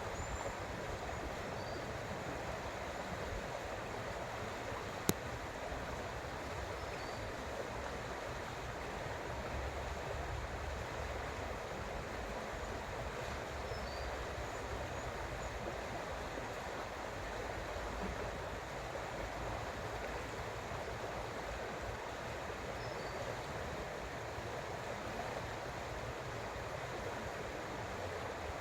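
Creek water flowing, a steady rushing. A single sharp click about five seconds in, and a few faint high chirps here and there.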